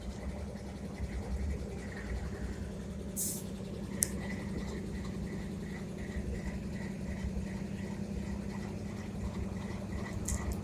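Vehicle engine idling steadily, with a faint, rapid ticking starting about four seconds in and a single sharp click.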